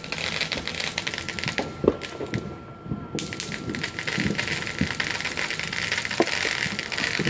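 Distant fireworks crackling in a dense run of small rapid pops, with a few louder bangs. The crackling thins out for a moment between two and three seconds in.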